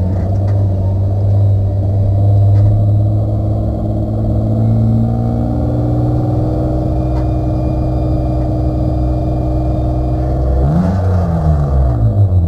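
1995 BMW 323i race car's straight-six engine running at low revs and slowly picking up, with a quick rise and fall in revs near the end.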